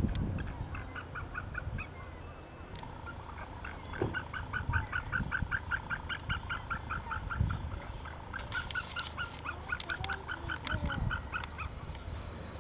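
Waterfowl calling in rapid runs of short honking notes, about five a second, a brief run near the start and a long one from about three seconds in, over a low wind rumble.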